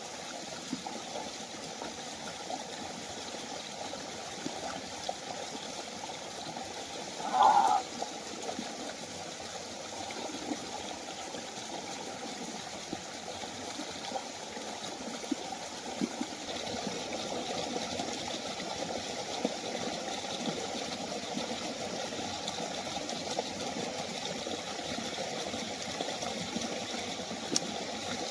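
Waterfall water falling and running steadily, a little louder in the second half. A brief, louder sound stands out about seven seconds in.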